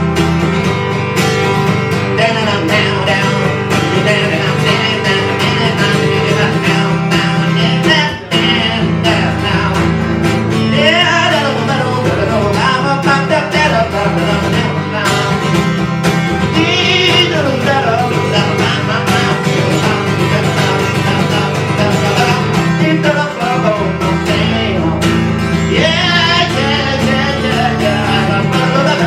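Live band music led by guitars: a steady chord backing with a lead line that wavers and bends in pitch a few times.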